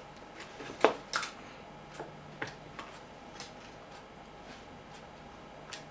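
Scattered light clicks and taps of small parts being handled and fitted on a bench, a small piece of glass being set into a portable radio's plastic case, the sharpest pair about a second in.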